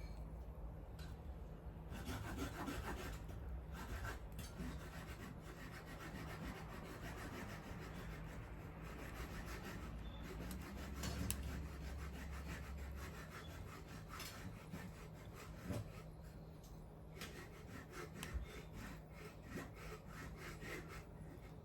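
Wood fire crackling, with many small sharp pops and snaps scattered irregularly throughout.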